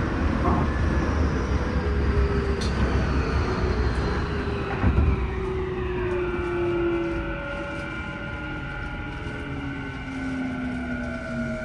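Tokyu new 5000 series train with its Hitachi IGBT VVVF inverter, heard from inside the car: the inverter and traction motor tones glide downward in pitch over the rail rumble as the train slows, a sign of braking on the approach to a station.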